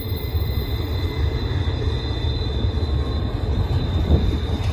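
Double-stack intermodal well cars rolling past, with a steady low rumble of steel wheels on rail and a thin, steady high squeal from the wheels on the curve.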